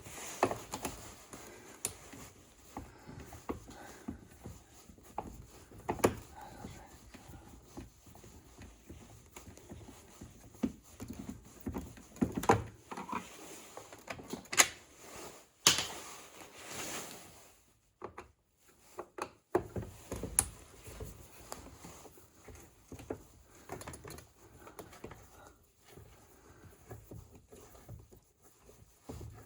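Irregular clicks, knocks and scrapes of a Bissell floor scrubber's housing being worked apart by hand as a cover is pried loose, with a few sharper knocks and a short scrape in the middle.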